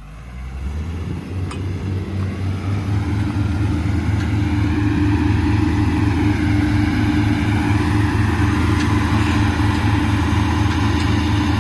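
Heavy diesel machine engine running, swelling in loudness over the first few seconds and then holding steady.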